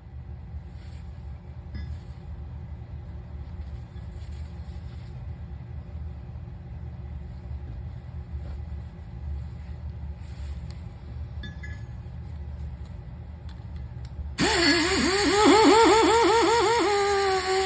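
Steady low rumble with a few faint clicks, then near the end a power tool starts abruptly: a loud hiss and a whine whose pitch dips and recovers several times a second before settling to a steady pitch.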